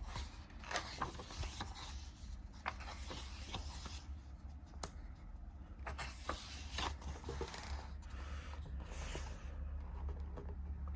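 Paper pages of a picture book being handled and turned: soft rubbing and rustling with scattered small clicks, over a low steady hum.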